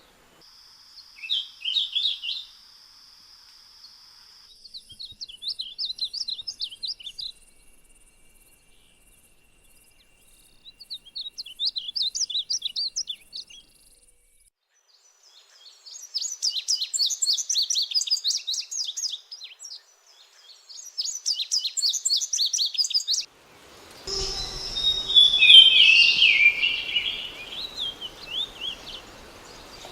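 A songbird singing repeated phrases of rapid, high chattering notes, each a couple of seconds long with pauses between. About three-quarters of the way in the recording changes: a louder, lower warbled song over steady background noise.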